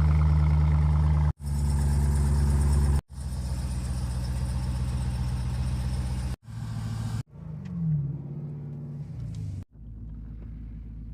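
Dodge Durango Hellcat's supercharged 6.2-litre Hemi V8 idling loud and deep, heard in several clips cut one after another, loudest at first and quieter later. About eight seconds in, a brief blip of the throttle falls back to idle.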